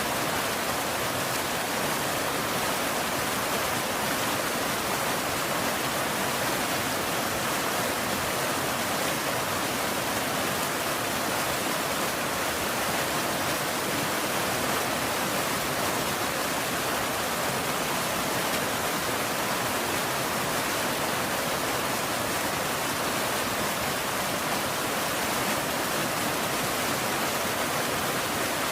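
Steady rain falling, an even hiss that holds unchanged throughout with no thunder or separate drops standing out.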